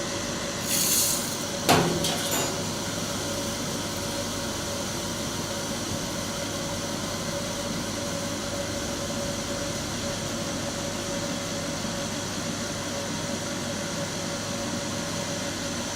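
Cotton candy machine running, its motor spinning the head with a steady hum while it heats up. A short hiss comes about a second in and a single knock just after.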